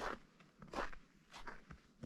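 Footsteps crunching in partly melted spring snow, three steps at an even walking pace.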